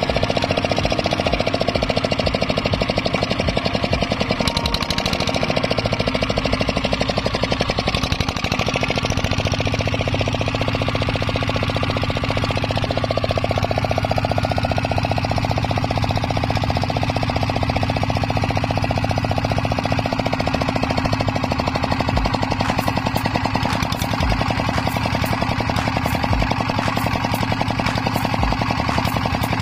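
Kubota 8 HP single-cylinder diesel engine running steadily with a fast, even knocking beat, running again after its seized piston was freed. Sharp clicks come in near the end.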